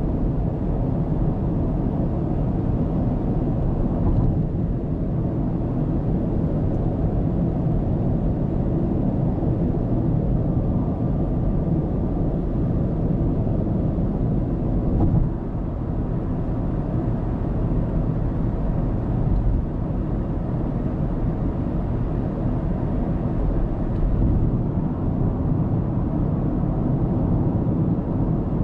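Car road noise heard from a dashcam while driving: a steady low rumble of tyres and engine, with a few brief bumps.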